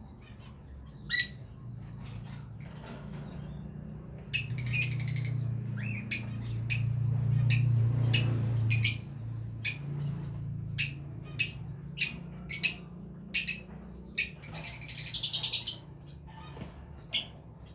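Caged breeding birds giving short, sharp squawking calls one after another, with two brief bouts of rapid chattering.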